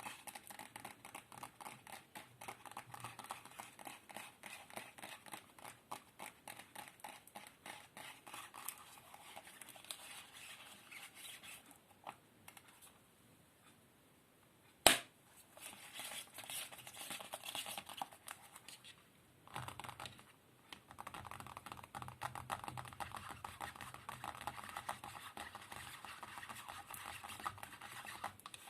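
Close-up ASMR tapping and scratching: a fast, dense patter of small clicks and scratches that goes quiet for a few seconds near the middle, then one sharp, loud click, then more rapid tapping.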